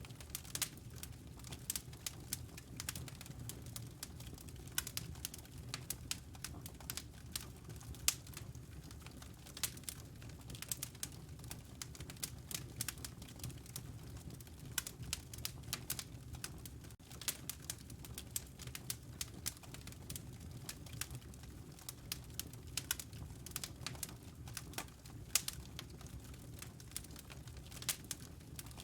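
Wood fire crackling in a stone fireplace: irregular sharp pops and snaps, several a second, over a steady low rumble.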